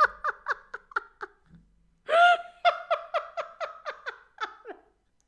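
High-pitched staccato laughter in two bouts: rapid giggles at about five a second, a short pause, then a louder second fit that trails off before the end.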